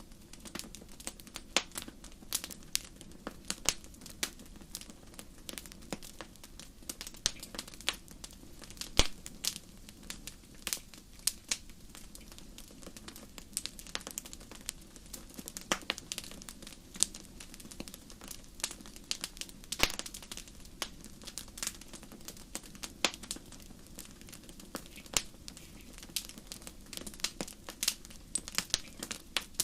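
Wood fire crackling: irregular sharp pops and snaps of burning firewood over a low, steady hiss of flame.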